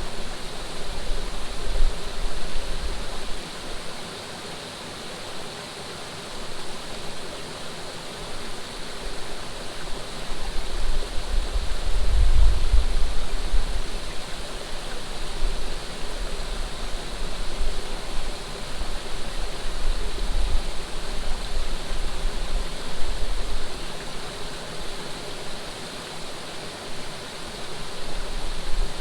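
Flowing water rushing steadily, with low gusts of wind buffeting the microphone now and then, strongest about midway.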